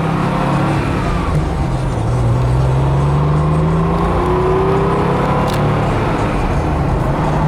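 1996 Porsche 911 Carrera's air-cooled 3.6-litre flat-six running under way, with road noise. The engine note dips about a second in, climbs for a couple of seconds as the car accelerates, then holds steady.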